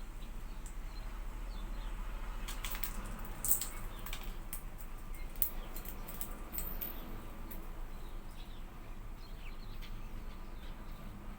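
Birds calling with short, sharp high ticks and faint brief chirps, clustered about three seconds in and again near five and a half seconds, typical of hawfinch calls, over a steady low hum.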